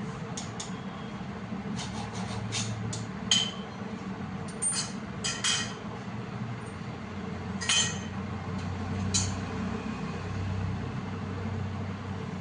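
A machine running with a steady hum, overlaid by irregular sharp metallic clinks, the loudest about three seconds in.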